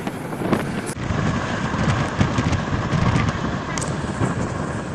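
Passenger train running at speed, heard from an open coach window: wind buffeting the microphone over the rumble of the coach and the clatter of wheels on the rails, with irregular sharp clacks.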